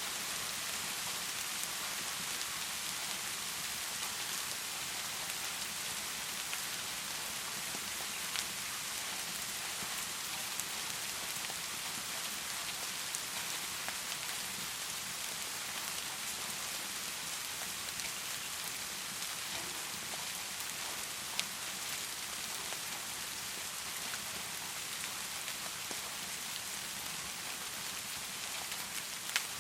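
Heavy rain falling in a steady, even hiss, with a few isolated sharp ticks scattered through it.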